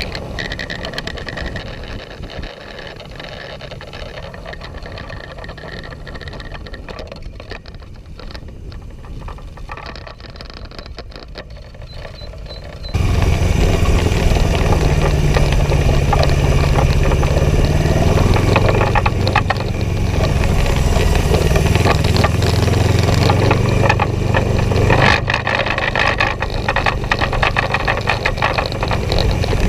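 Yamaha XS400 cafe racer's parallel-twin engine running: fainter at first, then, about 13 seconds in, abruptly much louder and close, a steady low engine drone that rises and falls a little in pitch.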